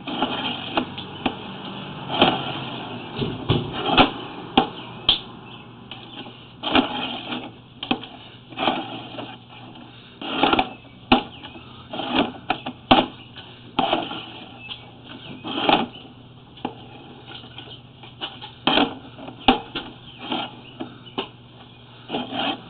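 Irregular knocks and clicks from a sewer inspection camera's push rod as it is fed through a cleanout into the sewer line, over a steady low hum.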